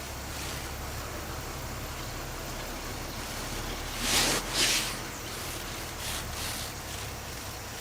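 Bulldozer's diesel engine running steadily in the background as a low hum, with two short hissing bursts about half a second apart a little past halfway.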